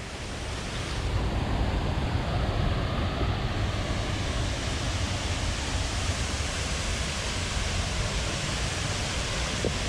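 Haew Suwat Waterfall's water pouring down onto the rocks: a steady rushing noise, heaviest in the low end, that swells over the first second and then holds even.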